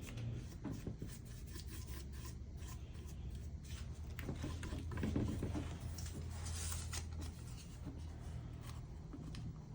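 Irregular soft rubbing over glued decoupage paper as it is smoothed down, with a slightly louder stretch of rubbing a little past the middle.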